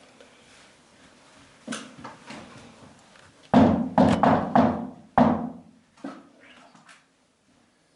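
A burst of loud, hard thumps, about six within two seconds, starting about three and a half seconds in. Fainter knocks come before and one more after.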